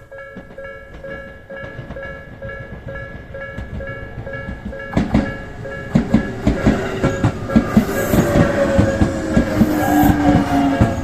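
Japanese level-crossing warning bell dinging rapidly and steadily. About five seconds in, a Tobu Utsunomiya Line train reaches the crossing and passes over it, its wheels clacking rhythmically over the rail joints and growing louder, with a falling whine under the bell.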